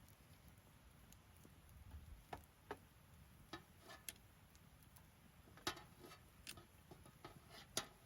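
Wood campfire crackling faintly: scattered sharp pops and snaps at irregular intervals, the two loudest about six and eight seconds in.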